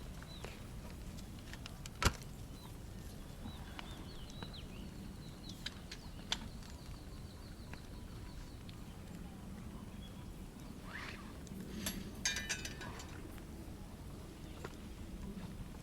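Faint campfire crackling with a few sharp pops, the loudest about two seconds in and a quick cluster near the end, while small birds chirp now and then.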